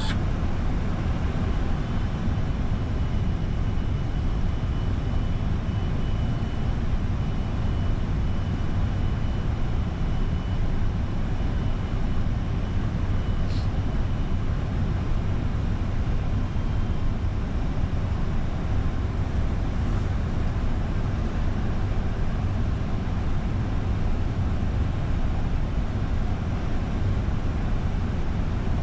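Steady rumble of airflow and engines heard inside a Boeing 747-400 freighter's flight deck on approach.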